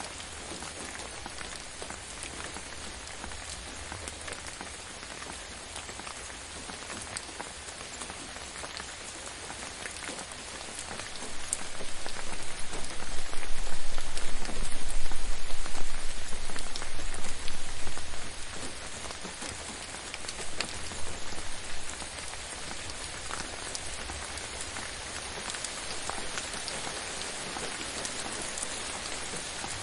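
Steady rain, with many individual drops heard striking. A low rumble swells in for several seconds in the middle and fades again.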